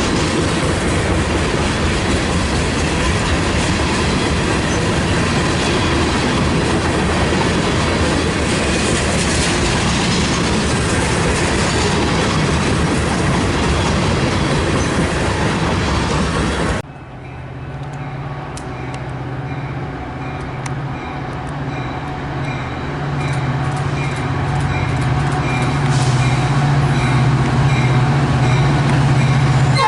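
A train rolling past close by, with loud steady wheel-on-rail noise and some clickety-clack. About two-thirds of the way in the sound cuts off abruptly to a diesel locomotive's low engine drone as it approaches, growing louder.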